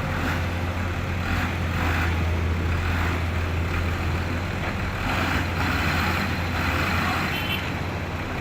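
Heavy diesel engine running steadily, a low drone.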